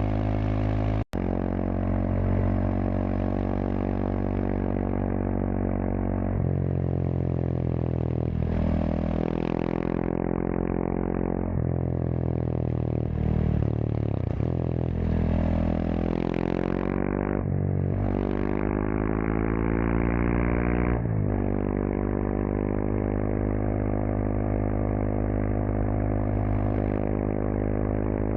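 Kawasaki KLX230SM's single-cylinder four-stroke engine running through a K-Factory FRC slip-on muffler while riding. It holds a steady note, then from about six seconds in its pitch rises and falls several times with throttle and gear changes, and settles back to a steady note after about 21 seconds. The sound drops out for an instant about a second in.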